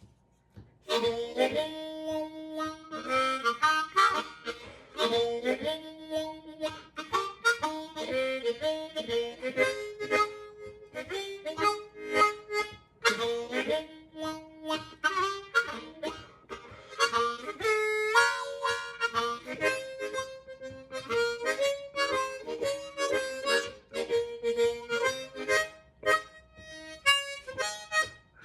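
Hohner Crossover diatonic harmonica in A-flat, played solo: melodic phrases of single notes and chords starting about a second in.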